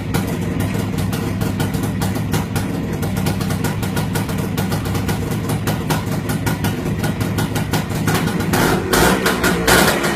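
1972 Kawasaki two-stroke motorcycle engine running at a fast, even idle, then revved up near the end.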